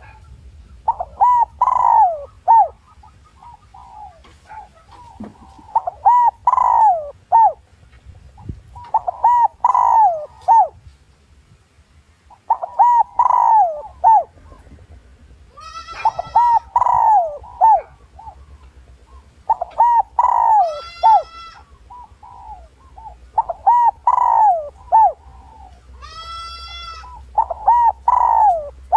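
Spotted dove giving its cooing song as a lure call, a multi-note phrase repeated every three to four seconds, eight times. A higher call with many overtones breaks in three times between the phrases.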